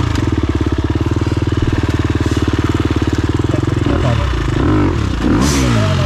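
Motorcycle engine idling with a steady rapid pulse, then revved up and back down a couple of times about four seconds in.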